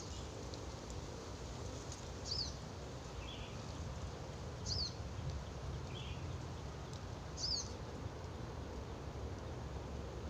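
A small bird calling: a short, high, falling note repeated about every two and a half seconds, four times, with a couple of fainter, lower notes in between. A steady low rumble runs underneath.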